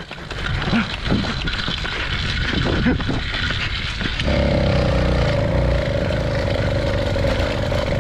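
Two-stroke motorbike engine, long unused and just refuelled, catching about four seconds in after a few seconds of starting attempts, then running steadily.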